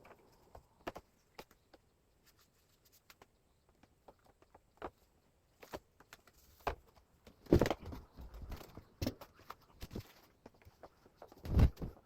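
Scattered clicks and knocks of hard parts being handled during disassembly of a wall-mounted air conditioner, with two louder thumps about seven and a half and eleven and a half seconds in.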